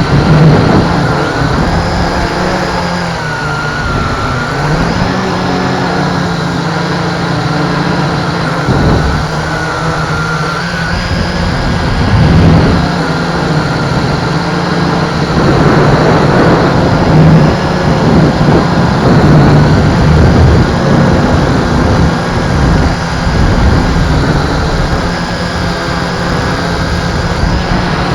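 MJX X101 quadcopter's motors and propellers whining steadily, the pitch wavering up and down as it flies in strong wind, over a heavy low rumble of wind buffeting.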